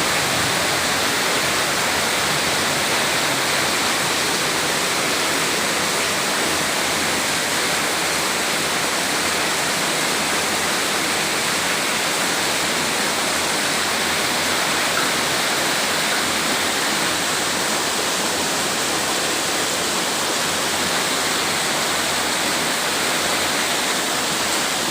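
Rain falling in strong wind: a steady, loud, unbroken rush of noise.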